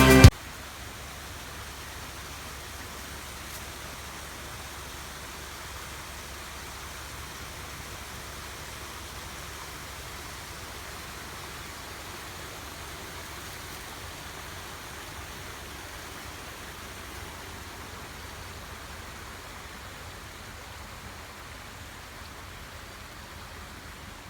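Mountain stream flowing with a steady rushing hiss of water. Background music cuts off just as it begins.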